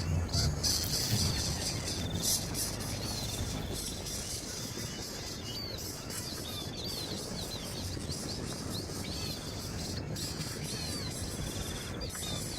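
Birds chirping, short high calls repeated irregularly, over the steady trilling of insects and a constant outdoor hiss.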